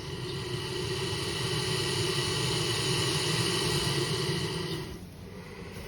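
Alligator hissing: one long, steady hiss lasting about five seconds, with a low rumble under it, ending shortly before the end.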